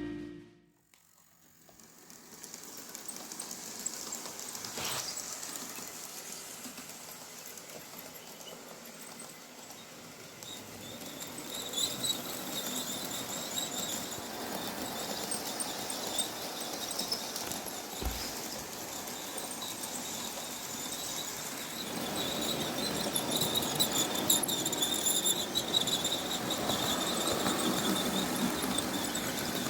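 OO gauge model train running on the layout's track: motor hum and wheel rumble with a high squeal from the wheels. It fades in about a second in and gets louder as the train comes nearer.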